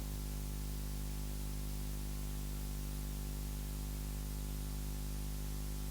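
Steady electrical hum with hiss, unchanging throughout: a constant low buzz with many evenly spaced overtones.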